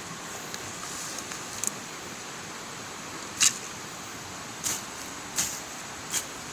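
Steady hiss of heavy rain. About three and a half seconds in, sharp taps begin and come roughly once a second.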